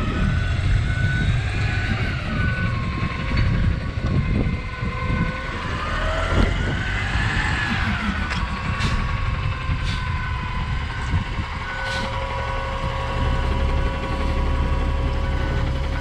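Trash truck's diesel engine running under load as the truck climbs onto a trailer, revving up and back down partway through, with a backup alarm beeping in a steady repeating pattern.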